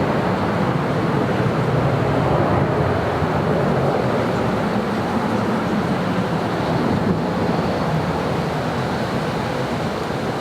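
A jet aircraft's steady, broad engine roar, easing slowly over the last few seconds.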